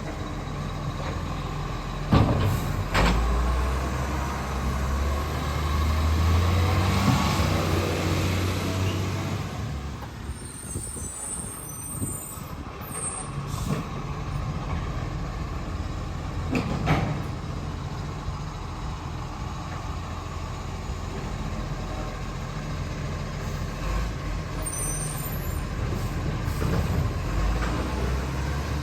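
Garbage truck's diesel engine running, growing louder for several seconds from about three seconds in, with a few sharp knocks at about two, three and seventeen seconds in.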